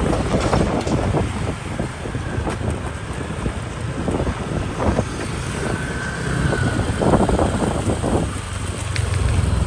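Ride-along traffic sound from a moving motorbike: a steady low engine and road rumble from the bike and surrounding traffic, with wind gusting over the phone's microphone.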